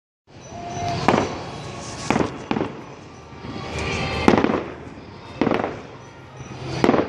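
Fireworks going off: six sharp bangs spaced unevenly over about six seconds, each rising out of a swelling rush of noise, with a low rumble underneath.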